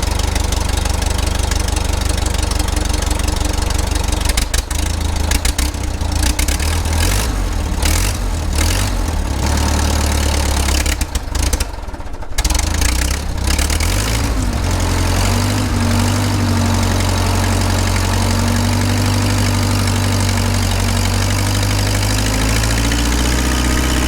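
Skid steer engine running, unsteady with dips and breaks for the first dozen or so seconds, then settling into a steady run, its pitch rising slightly near the end.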